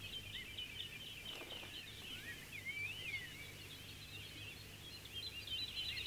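Birds chirping and calling: a dense run of short high chirps throughout, with a couple of longer sliding whistles about two to three seconds in.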